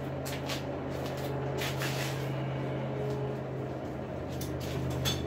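A forge running steadily with an even hum and hiss, with a few light metallic clicks and scrapes from the work at it.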